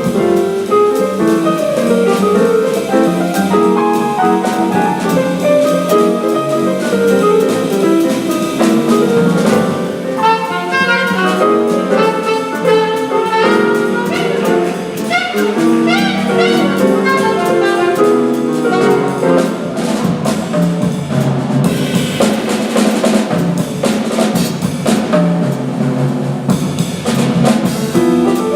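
Small jazz group playing live, with piano and drum kit. There are fast running lines in the middle, and the cymbals grow louder in the last third.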